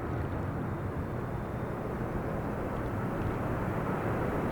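Distant jet airliner on approach, a steady low rumble of engine noise that slowly grows louder as it nears.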